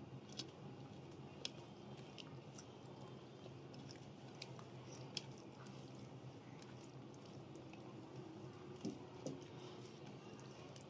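Close-miked chewing while eating rice with fried fish and vegetable dishes: soft, scattered wet mouth clicks and smacks. A faint steady hum runs underneath.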